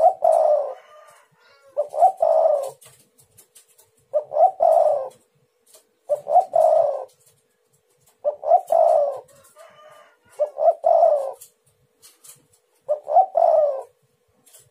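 Spotted dove (tekukur) cooing: a phrase of a few deep coos, repeated about every two seconds, seven times. A faint steady hum runs underneath.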